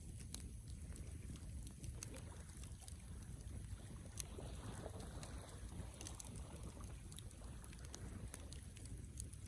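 Wood campfire burning: a low steady rumble of flames with scattered sharp crackles and pops from the burning wood. A soft rush swells about halfway through.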